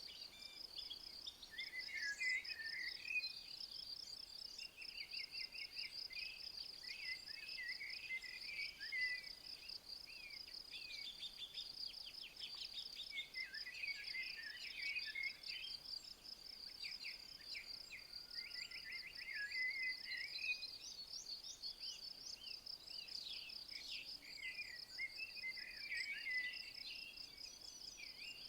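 An insect, likely a cricket or bush-cricket, trilling in a steady, rapid high pulse throughout. Over it, songbirds sing short warbling phrases every few seconds.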